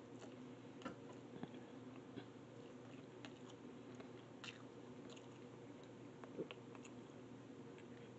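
Faint chewing of a mouthful of ramen noodles, with a few soft, scattered clicks from the mouth and the metal fork in the plastic container. A steady low hum runs underneath.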